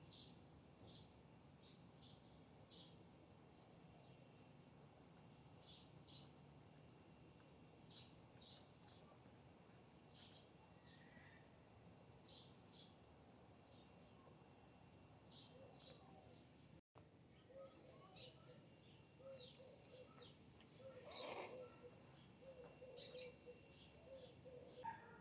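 Faint outdoor ambience: small birds give short, repeated chirps over a steady, high-pitched thin tone. The ambience drops out for an instant about two-thirds through.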